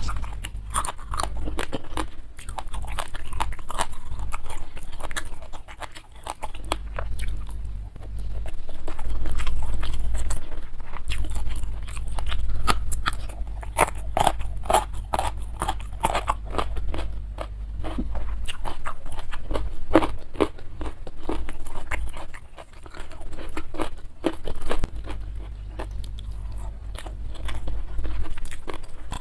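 Close-miked chewing and crunching of raw pea eggplants (cempoka), in uneven bursts of crisp crackles.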